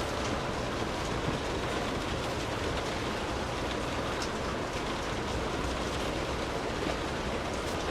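Steady rain falling: an even rushing hiss with scattered faint drop ticks.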